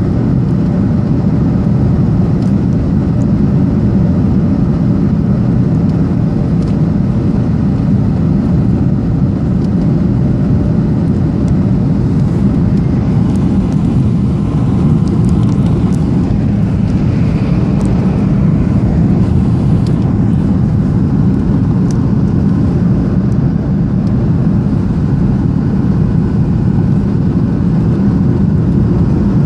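Steady cabin noise of a Boeing 737-800 in flight on approach: a loud, even rumble of its CFM56 engines and airflow heard through the fuselage.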